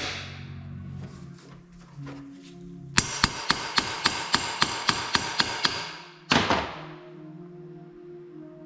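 Hammer striking metal: a few separate blows, then a quick run of about a dozen ringing strikes, four or five a second, and one heavier blow a little after.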